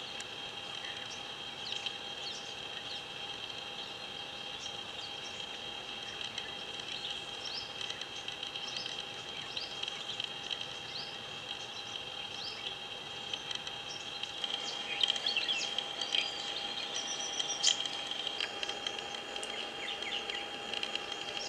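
Birds giving short high chirps, scattered and then busier about fifteen seconds in, over a steady high insect drone.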